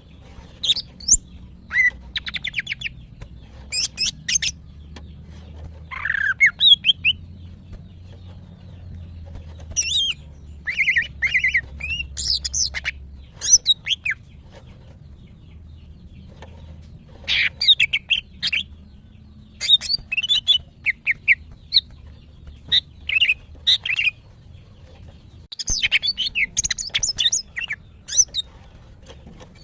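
Female green leafbird (cucak ijo) calling in bursts of sharp chirps and quick trills, in phrases a few seconds apart. This is the call of a female in breeding condition calling for a male.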